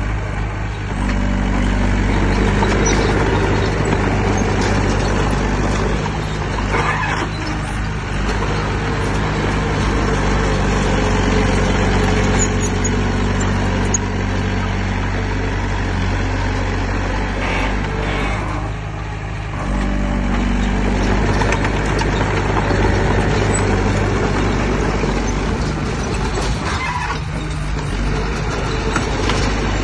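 Heavy diesel engine of earthmoving equipment running steadily under load. Its note rises about a second in, drops briefly near two-thirds of the way through, and climbs again.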